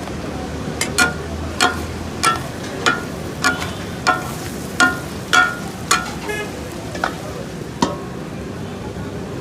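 Takatak chopping: metal spatulas strike a flat iron tawa about a dozen times, roughly twice a second, in ringing metallic clangs, and the last two strikes come more slowly near the end. Food is frying on the griddle underneath.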